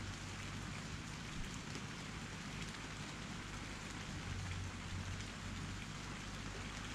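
Steady rain falling, a dense even patter, with a low wind rumble underneath that swells briefly about four seconds in.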